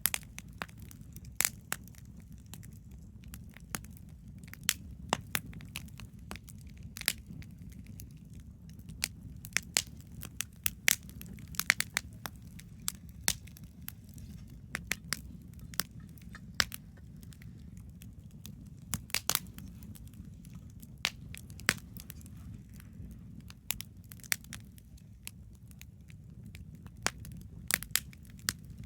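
Wood campfire crackling, with irregular sharp pops and snaps from the burning wood over a steady low rumble.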